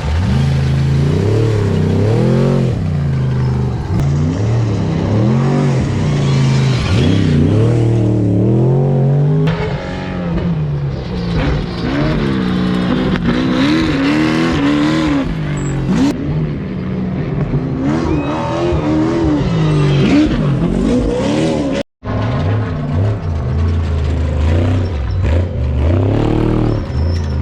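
Off-road trophy truck engines revving hard at race speed, the pitch climbing and falling again and again with throttle and gear changes. The sound cuts out for a moment about 22 seconds in.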